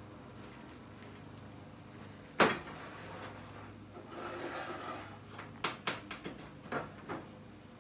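Metal parts and tools being handled over a steady low hum: one sharp knock about two and a half seconds in, a brief scraping shuffle, then a run of short clicks and taps near the end.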